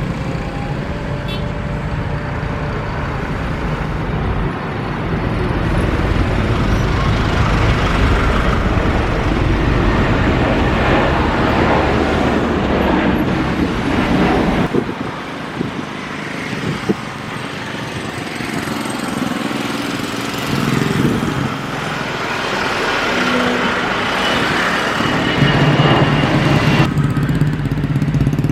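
Steady engine and traffic noise, changing abruptly about halfway through and again near the end.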